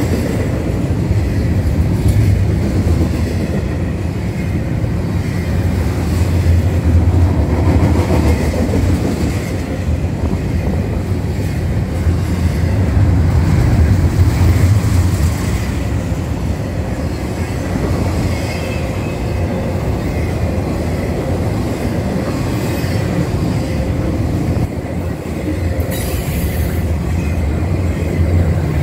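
Double-stack intermodal freight train cars rolling past close by: a loud, steady low rumble of steel wheels on the rails.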